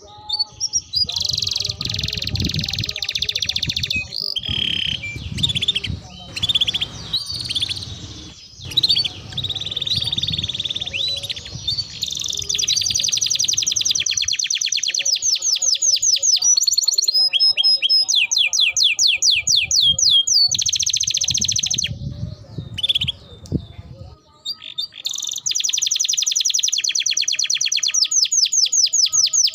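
Domestic canary singing, quick chirps and warbles giving way, about twelve seconds in, to long, fast rolling trills of rapidly repeated notes, with another long roll near the end.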